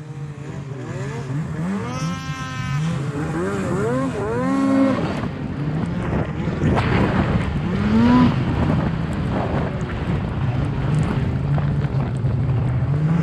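Snowmobile engine running, revved up and down several times in quick blips over a steady low running note, the revs rising and falling most busily in the first five seconds and once more about eight seconds in.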